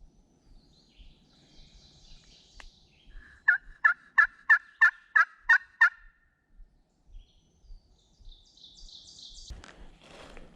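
A run of eight loud turkey yelps, about three a second, the even cadence of a hen yelp sequence. Faint small-bird chirps sound around it, and near the end footsteps start rustling through dry leaves.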